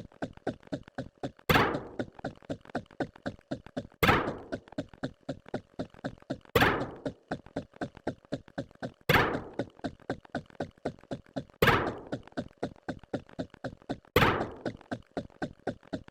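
A repeating pattern of sharp knocks: a loud hit about every two and a half seconds, with quick, softer clicks between the hits.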